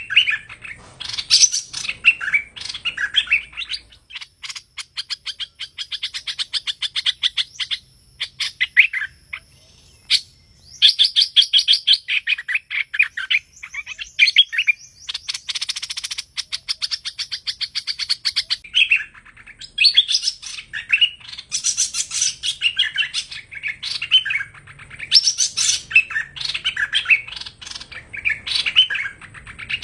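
Song of the bird known in Vietnamese as hoành hoạch: phrases of rapid chirps and trills, one after another, with a short pause about ten seconds in.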